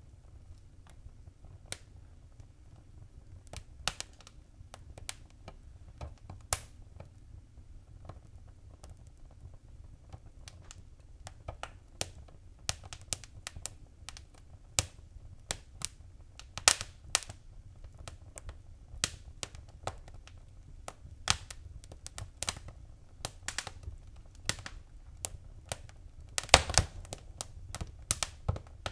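Wood fire in a fireplace crackling, with irregular sharp pops over a low steady rumble of the flames. The pops come more often in the second half, with a quick run of the loudest ones near the end.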